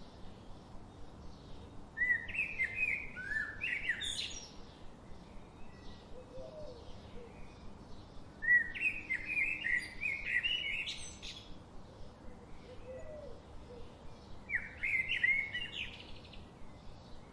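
A songbird singing three short phrases of quick chirping notes, each about two seconds long and spaced roughly six seconds apart, over a soft steady background hiss.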